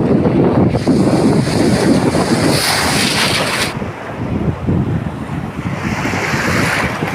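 Sea surf on a beach: waves breaking and washing in, with a hissing rush about a second in and a second, weaker one near the end. Wind buffets the microphone throughout.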